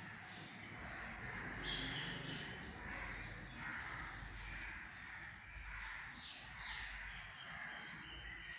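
Birds calling repeatedly: a string of short, harsh calls, several overlapping, throughout.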